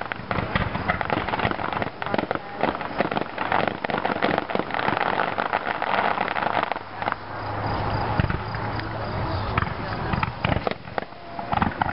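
Fireworks going off in a rapid, continuous string of pops and crackles. A steady low hum joins in about seven seconds in and fades about three seconds later.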